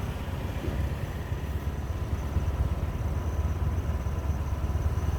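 Motorcycle running steadily while riding, a continuous low engine and road rumble.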